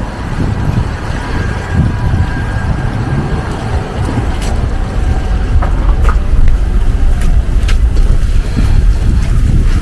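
Outdoor street sound of passing traffic, heavily buffeted by wind on the microphone, with a faint steady whine that fades out about six seconds in and a few light clicks.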